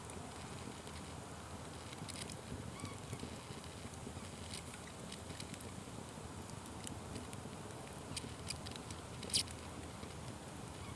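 Fire burning with a steady low rumble and scattered sharp crackles and pops. The loudest pop comes about nine seconds in.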